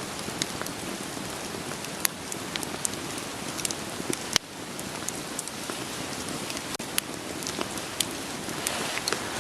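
Steady rain falling in an even hiss, with irregular sharp pops and crackles of burning firewood scattered through it.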